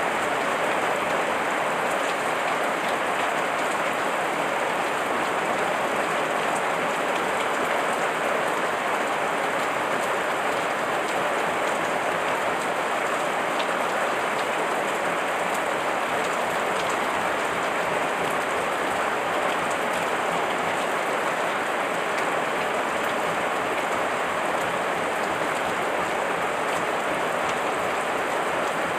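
Heavy rain falling steadily, a dense even hiss with a few separate drops ticking through it.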